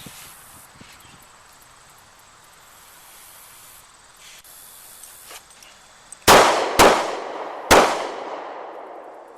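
Three pistol shots: a quick pair half a second apart, then a single third shot about a second later, its echo fading over the next second and a half. This is the failure drill pattern of two shots to the body and one to the head.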